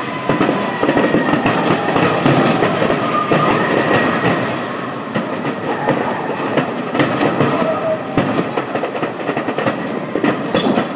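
Fireworks crackling and popping: a dense, steady mass of many small sharp reports.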